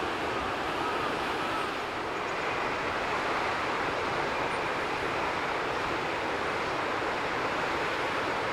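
A steady, even rushing noise with no change in level, and a few faint short calls in the first two seconds.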